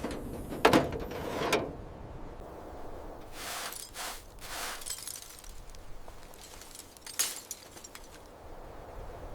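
Workshop knocks and clatter of car parts and tools being handled: two sharp knocks in the first couple of seconds, rattling scrapes around four seconds in, and another knock about seven seconds in.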